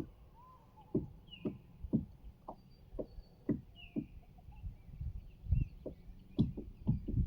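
Dull low knocks repeating about twice a second, with birds chirping faintly.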